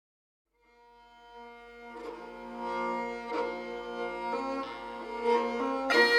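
Kamaicha, the Rajasthani bowed lute, fades in after a moment's silence and plays a slow melody over a steady drone. Just before the end a murli, a reed pipe with its own drone, comes in loudly.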